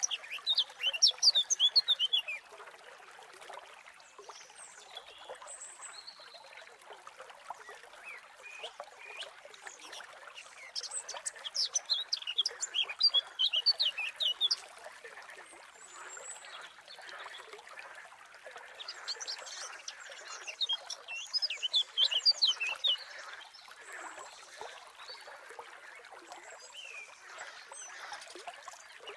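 A songbird sings three bouts of rapid, high, falling chirps, about ten seconds apart, over a steady background hiss.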